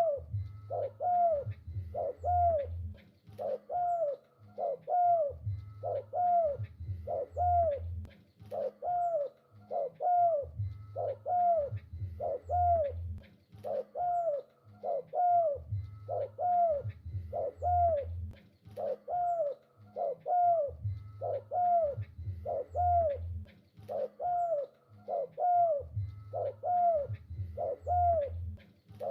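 Spotted dove (tekukur) cooing over and over, a steady run of short arched coos about one a second, with a deeper low cooing recurring in stretches about every five seconds.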